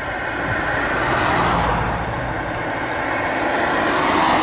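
A motor vehicle running, a broad rushing noise with a low hum that swells twice and falls away.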